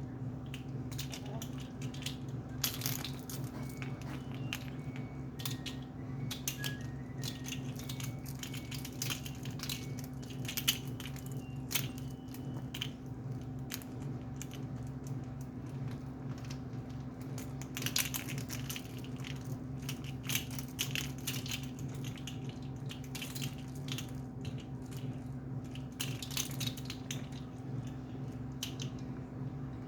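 Parrot biting and chewing on a rubber Croc clog: irregular crunching clicks, over a steady low hum.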